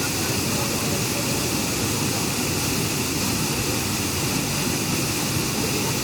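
Waterfall running heavy after rain: a steady, unbroken rush of water.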